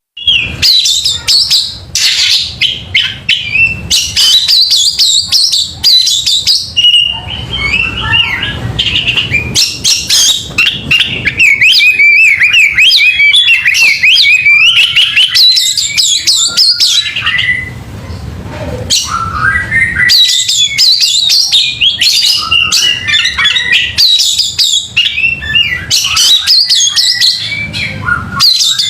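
Oriental magpie-robin (kacer) singing loudly and almost without pause: rapid, varied chirps and whistles mixed with sharp clicks, with a short break about two-thirds of the way in. This is the kind of heated song played to a kept kacer to make it fan its tail and get aggressive.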